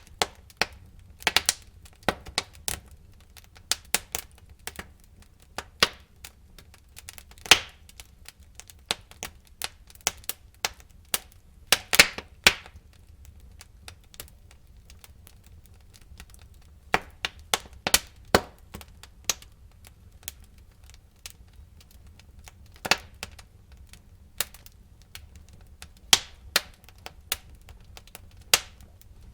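Burning wood in a fireplace crackling, with irregular sharp pops and snaps over a low steady rumble of the fire; the pops come in flurries, the loudest about twelve seconds in.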